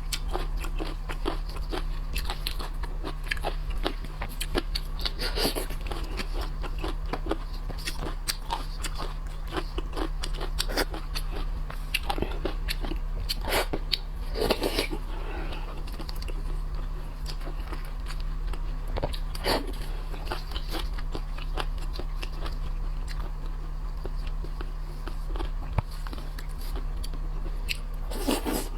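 Close-up eating of shellfish: irregular wet chewing with frequent small crunches and clicks, as shells and meat are bitten, over a low steady electrical hum.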